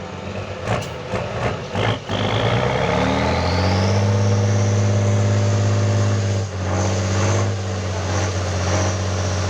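Competition truck's engine revving up over about two seconds and held at high revs under load, with a high whine rising alongside; it dips briefly about six and a half seconds in and then pulls on. A few sharp knocks come in the first two seconds.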